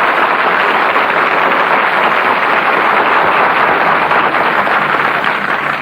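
Audience applauding steadily, on a heavily compressed 1930s radio broadcast recording.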